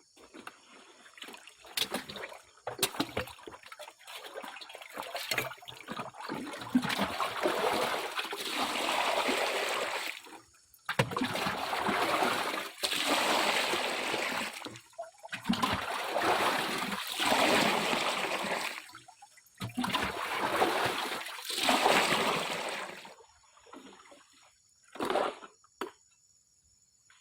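Water sloshing and splashing in a series of bursts a second or two long, with short gaps between them, as in a gold pan being swirled and dipped. Scattered knocks come in the first few seconds.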